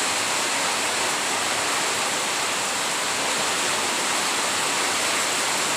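Heavy rain falling steadily as an even, continuous rush.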